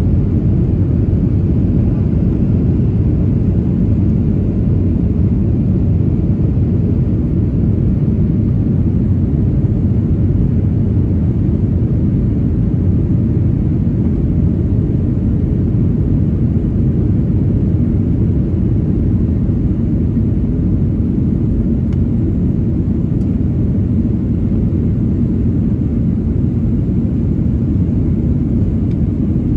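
Steady low rumble heard inside the passenger cabin of a Boeing 737-900ER, its CFM56 jet engines running at a constant setting with no change in pitch or level.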